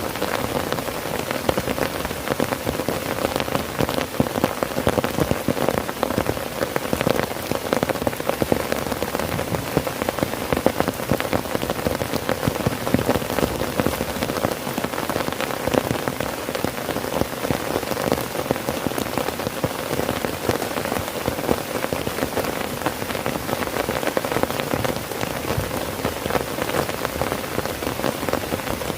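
Heavy rain drumming steadily on a tent's fabric, a dense patter of countless drops with no let-up.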